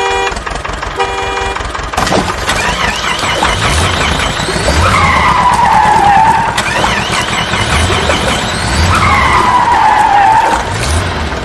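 Two short vehicle horn toots, then a loud run of cartoon vehicle sound effects: engine noise with screeching swoops that fall and rise in pitch, twice.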